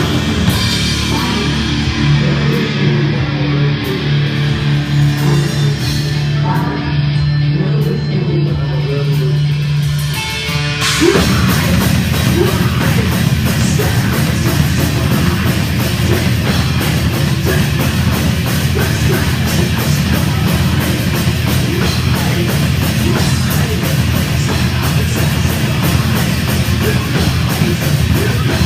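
Heavy rock band playing. A sparser passage with long held low notes gives way, about eleven seconds in, to the full band at once: drums and distorted guitar, dense and loud.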